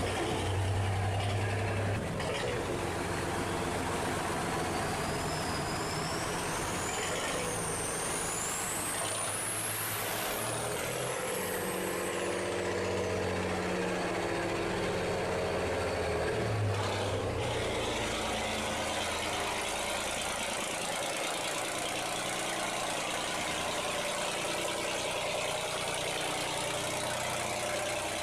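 Heavy engines running steadily under a rushing noise, with a thin high whistle gliding up and down from about three to thirteen seconds in.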